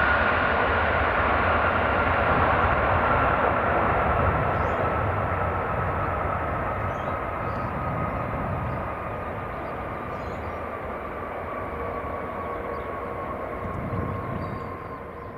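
Airbus A330-300 jet engines running: a steady rumble with a whine that slowly falls in pitch while the sound gradually fades.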